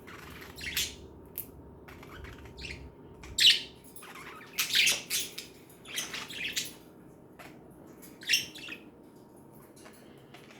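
Pet budgerigars chirping and chattering in short, high calls that come irregularly, the loudest about three and a half to five seconds in.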